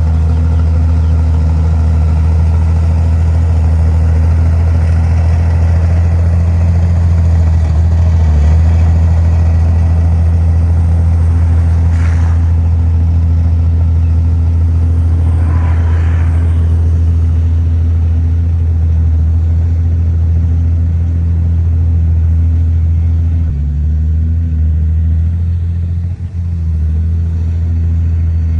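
Heavy diesel engine of earth-moving machinery running steadily under load. A brief higher-pitched sound comes about halfway through, and the engine note shifts near the end.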